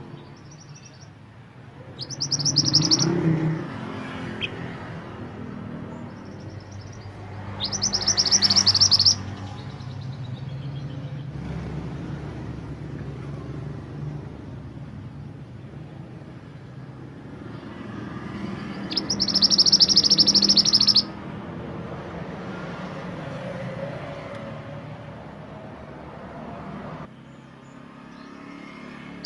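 Mantenan gunung songbird singing in three loud, high-pitched phrases of one and a half to two and a half seconds each, about 2 s, 8 s and 19 s in, over a steady low background rumble.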